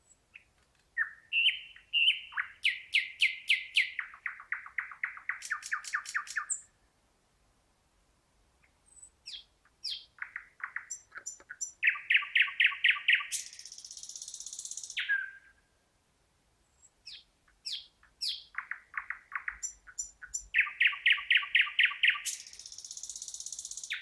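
Thrush nightingale singing three phrases a few seconds apart. Each opens with a few separate notes and runs into fast series of repeated notes; the second and third phrases end in a high, rasping buzz.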